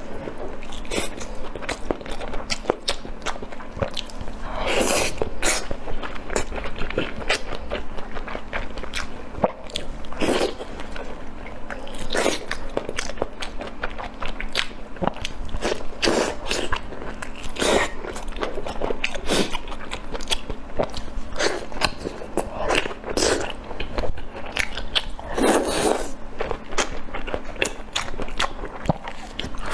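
Close-miked chewing and biting of spicy fried pork intestine: a steady run of wet, crunchy mouth clicks, with a louder bite every few seconds.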